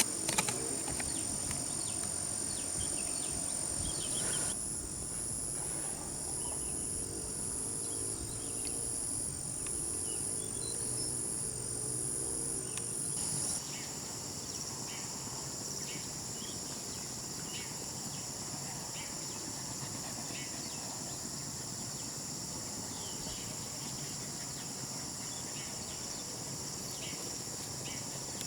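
A steady, high-pitched insect chorus. Through the first half a separate high insect call pulses about once a second, then stops abruptly about halfway through. Faint short ticks sound throughout.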